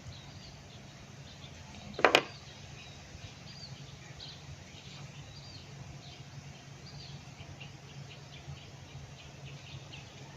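One sharp knock about two seconds in, the loudest sound, over faint repeated high chirping and a steady low hum.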